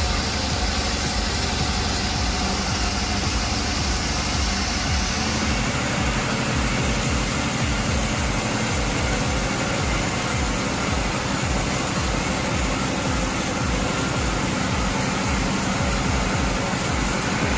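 Sawmill machinery running steadily with an engine-like low throb; a high hiss drops away about five seconds in.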